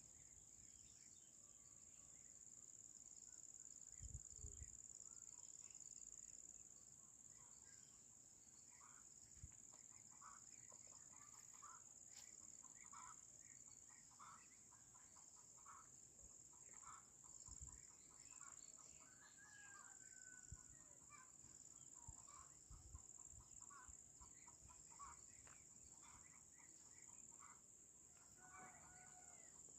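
Faint outdoor ambience: a steady high-pitched insect chorus, like crickets, with many faint short bird calls from about nine seconds in and a few soft low thumps.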